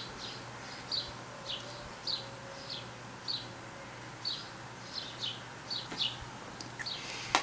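A small bird chirping over and over: short, high, falling chirps about twice a second, over a faint steady hum.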